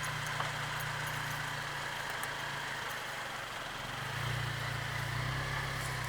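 2008 Honda Civic Si's 2.0-litre four-cylinder engine idling steadily, its hum growing a little louder about four seconds in.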